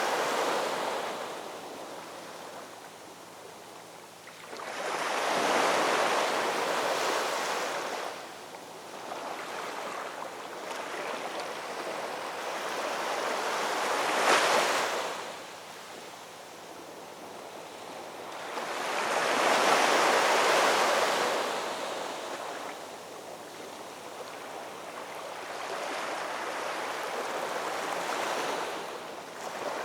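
Ocean waves breaking along a shoreline, the surf swelling and falling back in about five surges, one sharper crash near the middle.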